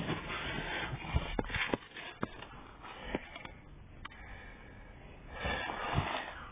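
Rustling and handling noise with a scattering of sharp clicks and knocks, and a louder rustle near the end.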